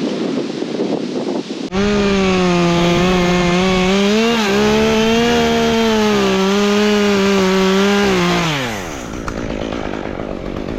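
Wind noise on the microphone, then a chainsaw suddenly opened to full throttle about two seconds in and held at a steady high pitch for around six seconds, before the throttle is released and the engine winds down in pitch.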